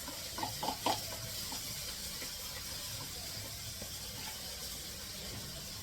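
Fish curry frying in hot oil in a pot on the stove: a steady sizzling hiss.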